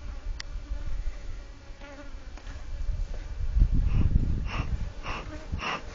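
African honey bees buzzing around an open hive in a steady hum. Near the end, four short hissing bursts come in quick succession.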